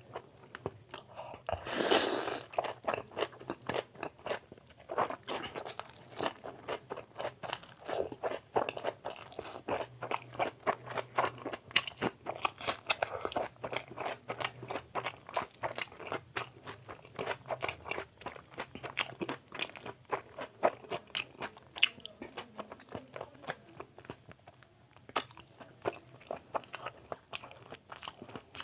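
Close-up chewing and smacking of a mouthful of chicken chow mein and curry, with many quick wet mouth clicks. A loud slurp of noodles about two seconds in.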